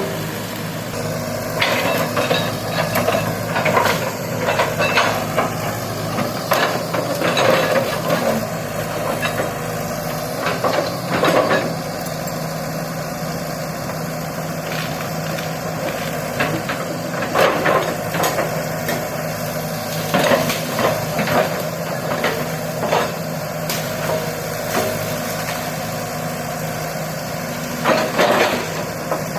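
Excavator's diesel engine running steadily, with irregular knocks and clunks as the machine works, clustered in the first half and again near the end.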